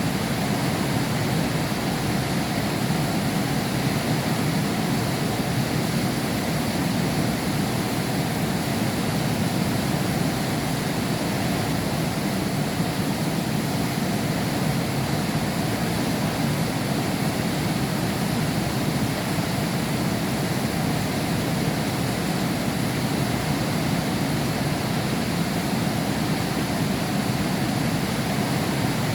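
Heavy rain pouring steadily, an even noise without breaks.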